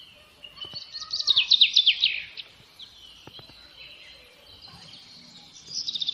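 A songbird singing: a fast run of high whistled notes, each sliding downward, about a second in, and the same phrase starting again near the end.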